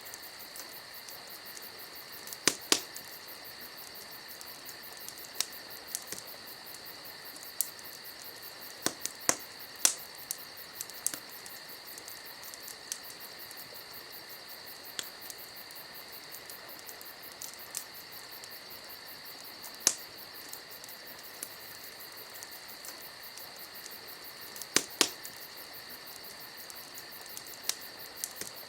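Wood campfire crackling, with sharp pops at irregular moments, the loudest a few seconds in, about ten seconds in, about twenty seconds in, and a pair near the end. Underneath runs a steady, high, rapidly pulsing chorus of insects.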